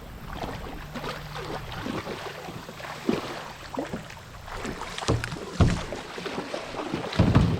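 Water splashing and hollow knocks against a kayak's hull while a hooked fish is fought and swung toward the boat, with heavier thuds about five seconds in and near the end.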